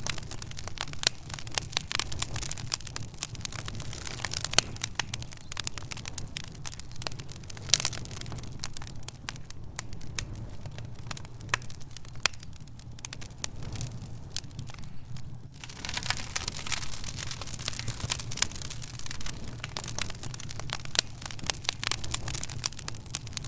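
Fireplace fire crackling: dense, irregular pops and snaps over a steady low rumble. The crackling thins out for a few seconds past the middle, then picks up again.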